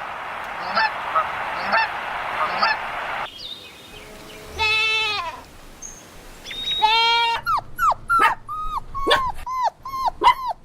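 Honking calls of a flock of birds, about one a second over a steady noise of the flock, stop at a cut. Then a puppy whines, breaking into a quick run of high, short yelps.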